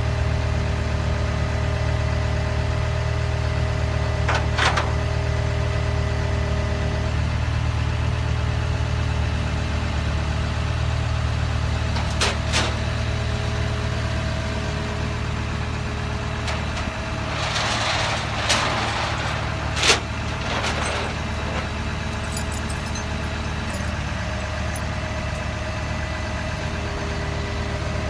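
Freightliner M2 flatbed tow truck's diesel engine running at a steady idle, with a steady whine that drops out and comes back. A few sharp knocks and a short hiss break in about two-thirds of the way through.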